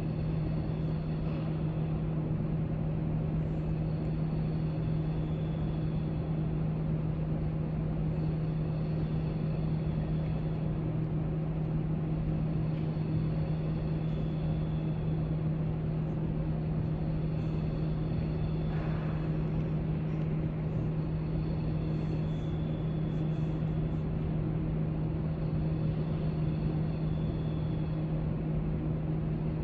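Library room tone: a steady low hum over an even background hiss, with a few faint light clicks here and there.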